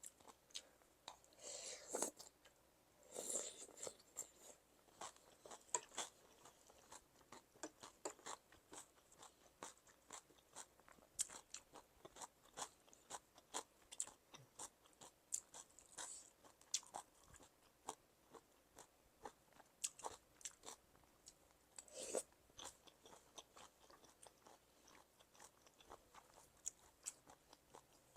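A person chewing crunchy Thai cucumber salad close to the microphone: irregular crisp crunches several times a second, with a few louder bites.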